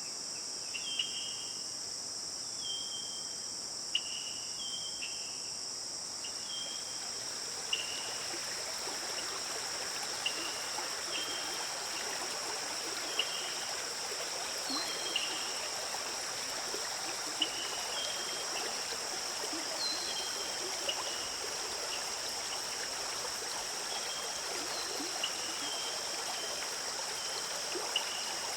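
A steady high-pitched drone of crickets or other insects, with short, high, falling bird chirps repeating every second or two. A few seconds in, the rushing and trickling of a stream swells in beneath them and keeps on.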